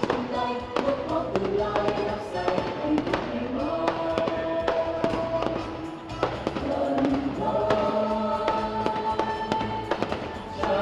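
Aerial fireworks bursting and crackling in quick, irregular succession over a musical accompaniment with long held notes.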